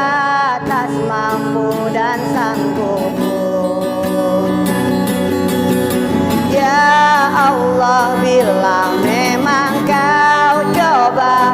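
Music: a singer holding long, wavering notes with vibrato and quick runs over a steady instrumental accompaniment.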